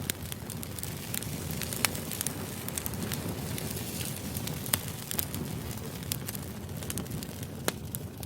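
Steady low background noise with irregular sharp crackles and clicks scattered through it, a few of them louder than the rest.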